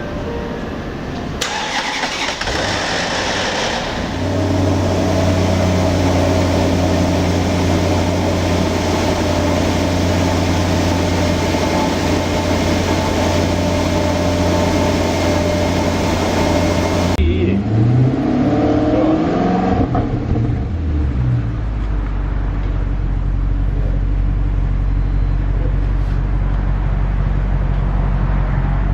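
Maserati Quattroporte V8 starting and settling into a steady, fairly high idle. Later it is blipped a few times, its pitch rising and falling, before settling into a lower, deeper idle.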